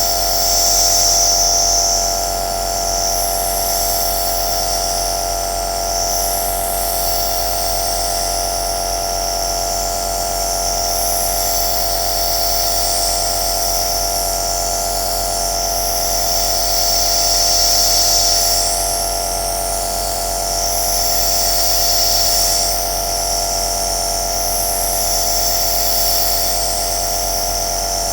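Compressor nebulizer (aerosol machine) running steadily: a constant motor hum with a high hiss of air and mist that swells and fades every few seconds.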